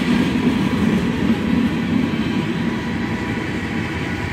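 Freight train of tank cars rolling past at close range, a steady noise of steel wheels on the rails.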